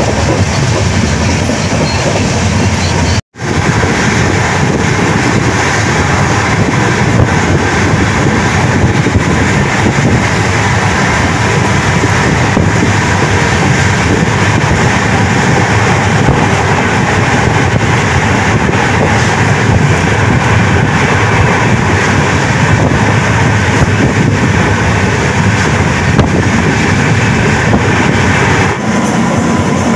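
Running noise of the Karnataka Sampark Kranti Express passenger train at speed, heard from inside a general coach: a loud, steady sound of wheels on the rails. It cuts out for a split second about three seconds in.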